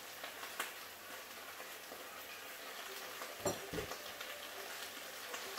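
Sliced potatoes frying in oil in a lidded skillet: a faint, steady sizzle, with a couple of soft knocks about three and a half seconds in.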